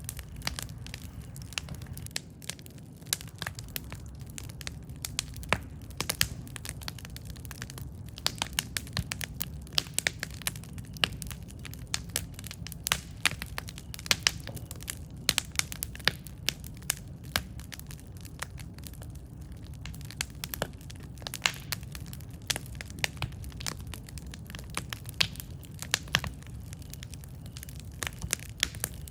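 Wood campfire crackling: irregular sharp pops and snaps, several a second, over a steady low rumble of the burning fire.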